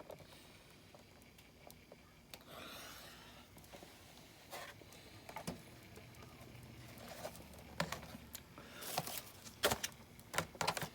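Faint handling noises from diecast model vehicles being picked up and set down: scattered clicks and taps with a brief rustle about two and a half seconds in, the clicks coming thicker in the last few seconds.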